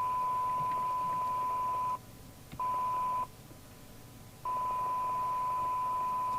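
A steady, pure test tone from the CB radio's audio that cuts out twice: briefly about two seconds in, then for about a second before it returns. The dropouts fit an intermittent connection, a broken wire in the microphone lead.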